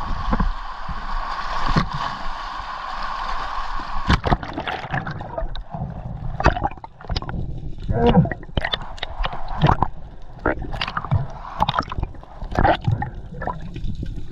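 Choppy seawater sloshing, splashing and gurgling: a steady hiss for about the first four seconds, then many short sharp splashes.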